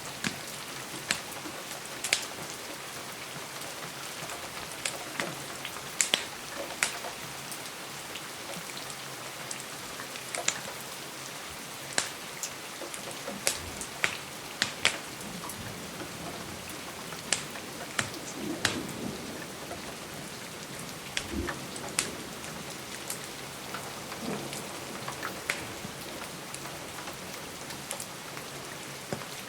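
Steady rain falling on a window, mixed with the sharp, irregular pops and crackles of a wood fire.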